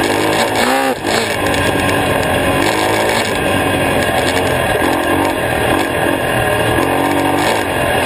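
Honda XR250R's air-cooled single-cylinder four-stroke engine running hard under the rider, its pitch rising and falling over and over as the throttle is rolled on and off. About a second in there is a brief dip and a quick rev up and down.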